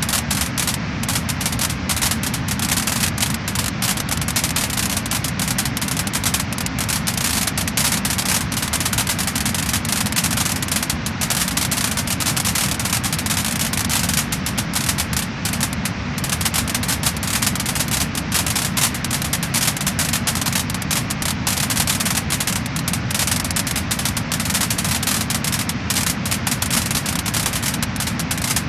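Wood fire crackling and popping, with many quick irregular cracks over a steady hiss.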